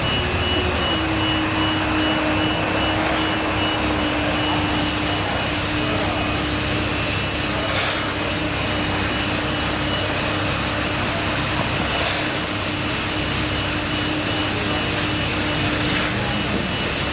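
Steady machine noise: a loud, constant drone with a held hum.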